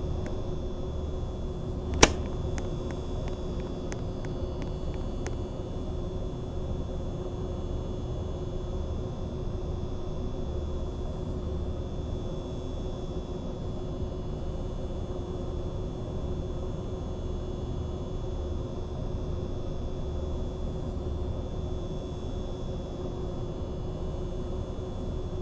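Mistral ceiling fan running steadily: a constant motor hum with a faint high whine over the rush of air. A sharp click about two seconds in, followed by a few fainter ticks over the next three seconds.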